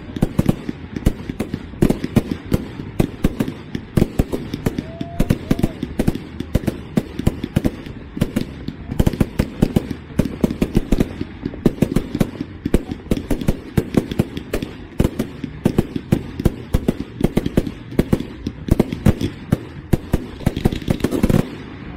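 Fireworks display: a dense, rapid barrage of bangs and crackles from bursting shells, several a second without a break, which stops suddenly near the end.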